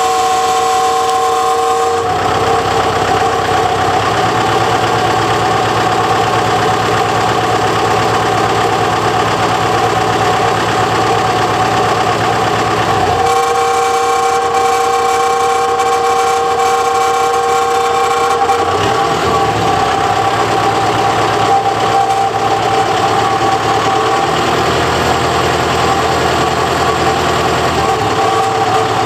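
Tractor engine running with a high-pitched metallic squeal, a 'kee' of metal rubbing on metal; the squeal comes at low idle and goes away when the revs are raised a little, and its tones step in and out as the engine speed changes several times. The cause is unknown to the owner.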